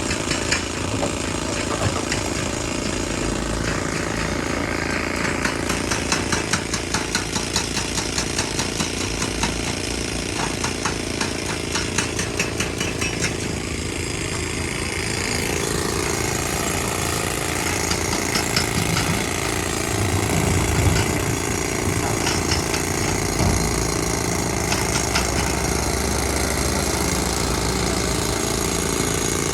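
Heavy quarry machinery at a rock crusher running loud, with fast, even hammering through the first half that gives way to a steadier engine-like noise.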